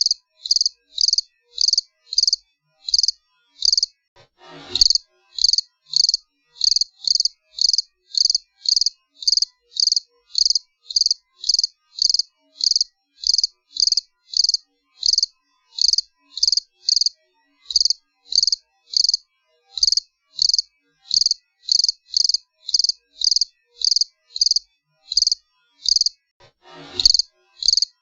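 A cricket chirping in a steady, repeating rhythm of short high-pitched chirps, about two a second. Twice, about five seconds in and again near the end, a brief whoosh falls from high to low pitch.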